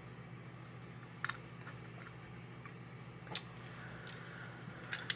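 A few light clicks and taps as small metal parts of a toy locomotive are handled and fitted during reassembly: a quick double click about a second in, another about halfway, and a couple more near the end, over a steady low hum.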